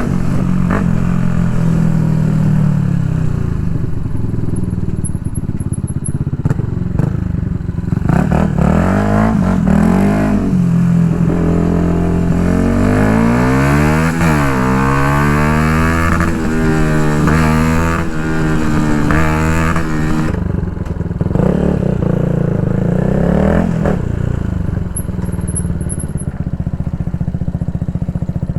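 Yamaha MT-125's 125 cc single-cylinder four-stroke engine through an Akrapovic full exhaust, heard riding: the engine note climbs and drops several times through the middle as it revs and changes gear, then settles to a steady low note near the end.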